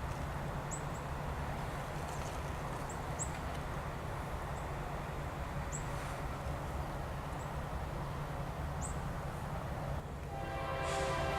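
Diesel freight locomotives running with a steady low engine drone. About ten seconds in, a locomotive air horn begins to sound, a chord of several steady tones that grows louder.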